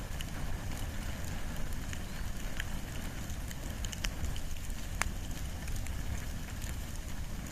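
Wood and bamboo fire burning: a steady low rumble with scattered sharp crackles and pops, the loudest two about four and five seconds in.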